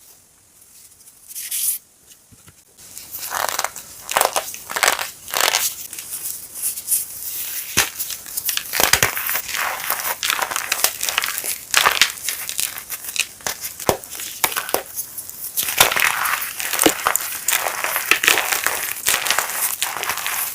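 Chunks of reformed gym chalk being crushed and crumbled, a dense run of crisp crunches and crackles. A single short crunch comes first, and the steady crushing begins about three seconds in.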